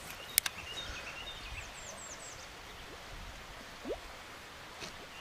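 Outdoor ambience with birds singing in short chirping phrases, and one sharp click about half a second in. A brief rising sweep follows near four seconds.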